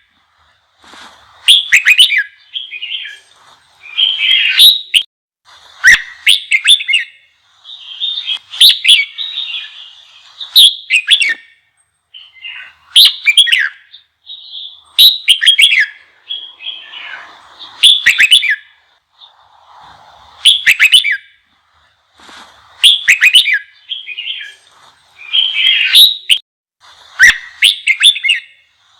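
Red-whiskered bulbul singing an intense, fired-up song: loud, short warbled phrases repeated about every two seconds with brief pauses between them.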